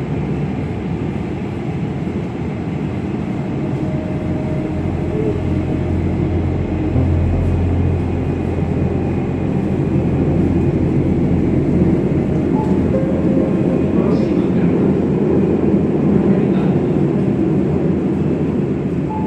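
Train running with a steady low rumble and a deep hum, growing a little louder over the first several seconds.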